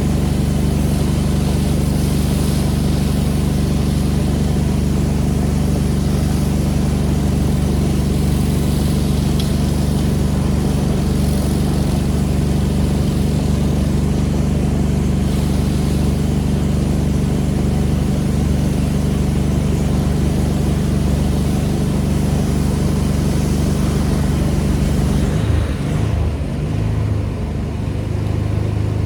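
Pressure washer engine running steadily under a high hiss of water spray. About 25 seconds in, the engine note shifts and the level dips slightly.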